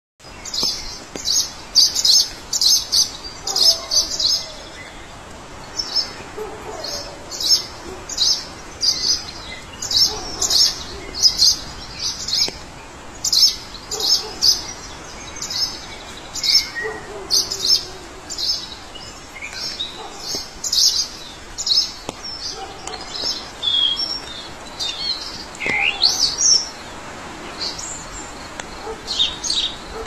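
Several birds singing: quick runs of short, high chirps repeated throughout, with a lower bird call that falls in pitch every few seconds.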